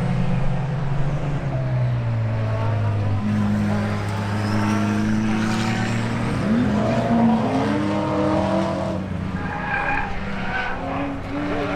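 Race car engines running on the track, the engine note stepping and sliding up and down in pitch several times.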